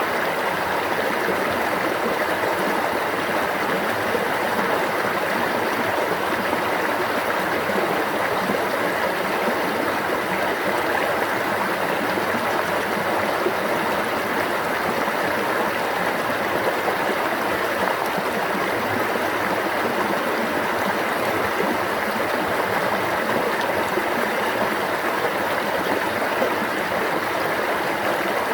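Steady rushing and babbling of a flowing stream, even and unbroken throughout.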